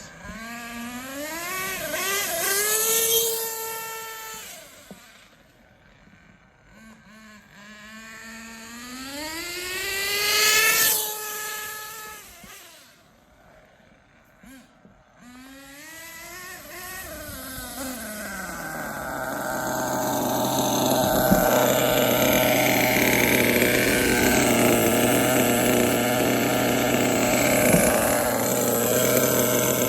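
Nitro RC truggy's Hong Nor Force 32 5.2cc engine revving in runs, its pitch climbing and then falling three times as the truggy accelerates and brakes, then settling into a steady idle about two-thirds of the way in. The engine is on its fifth break-in tank and being tuned.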